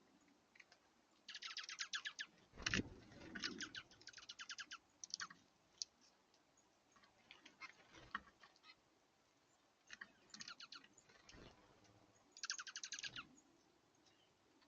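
Small songbirds giving quick runs of rapid twittering notes in short bursts, about four times, with a few soft thumps in between.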